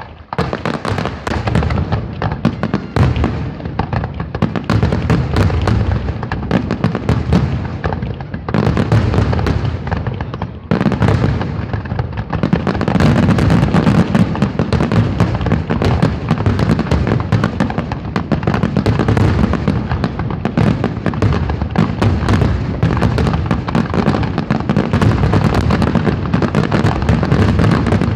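Aerial firework shells bursting in a rapid, continuous barrage, the bangs overlapping into a dense rumble. It thins briefly after about ten seconds, then grows denser and louder from about twelve seconds in.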